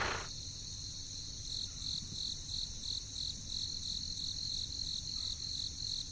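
Crickets trilling steadily, with an even pulsing chirp about three times a second.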